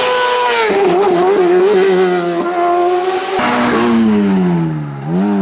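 Hillclimb race car engine at high revs. Its pitch drops abruptly about a second in, holds, then falls steadily as the car slows, and picks up again near the end.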